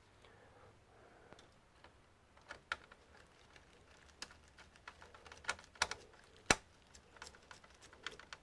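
Irregular small clicks and taps of hands handling the parts of an opened all-in-one desktop computer, coming more often from about two seconds in, with the sharpest click about six and a half seconds in.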